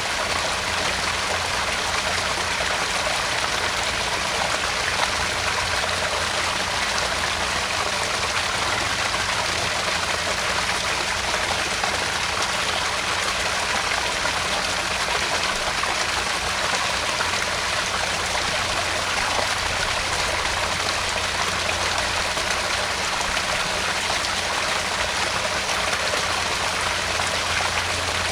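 Small garden pond waterfall: water spilling and splashing steadily into the pond, an even rushing trickle with no breaks.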